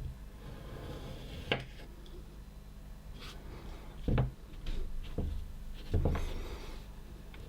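A knife cutting and scraping through kinetic sand, heard as a few separate soft knocks and scrapes over a low steady hum.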